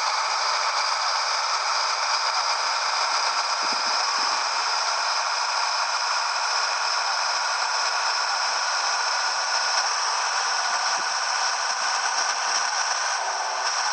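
Steady in-cab rattling and hissing noise from a 1998 Scania 113H 360 truck under way, with a few steady high whining tones in it and little bass.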